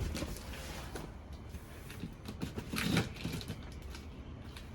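Razor blade slicing packing tape and cardboard on a box, scratchy scraping with scattered clicks and a louder tearing stretch about three seconds in.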